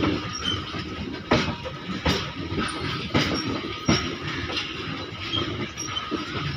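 Open-top freight wagons of a long goods train rolling past, their wheels clacking over rail joints about once a second over a steady rumble, with a faint thin whine underneath.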